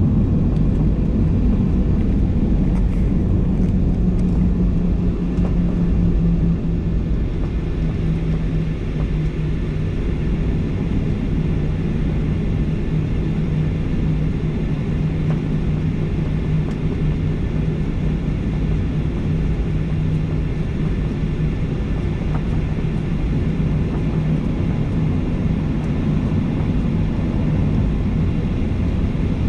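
Boeing 737-800 cabin noise by a window seat: the CFM56-7B engines and airflow making a steady low drone with a humming tone that dips slightly about seven seconds in.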